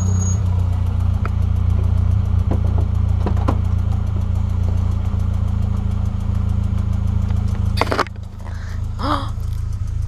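Renault Clio 3 RS's 2.0-litre four-cylinder engine running steadily at low, unchanging revs through its K-tec KTR aftermarket exhaust, with a deep even drone. A few light clicks early on and a loud sharp clunk about eight seconds in.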